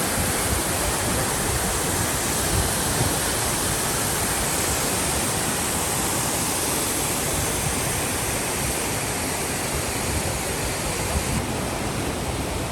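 Loud, steady rush of falling water from the Düden waterfall, its high hiss dimming slightly near the end.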